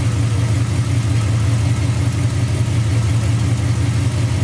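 Off-road vehicle's engine idling steadily, a constant low hum.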